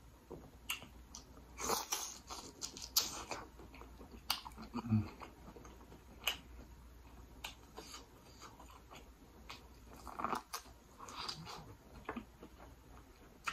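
Close-up mouth sounds of a person eating saucy seafood: wet chewing, lip smacks and scattered sharp clicks at an irregular pace.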